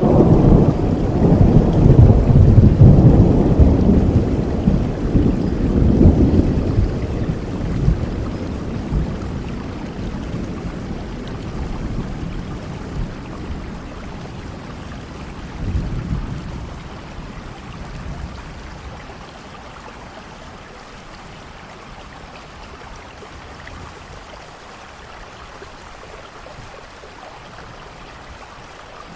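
A thunderstorm: a long, deep roll of thunder that is loudest in the first few seconds and slowly fades, with a smaller rumble about halfway through, over steady rainfall.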